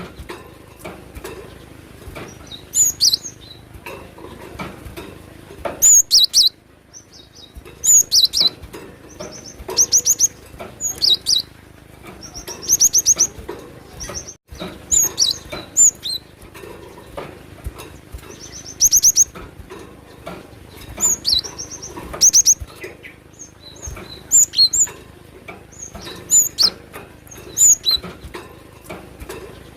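Cinereous tit (gelatik batu) singing actively, with short high chirps and quick rapid-note runs repeated every second or two.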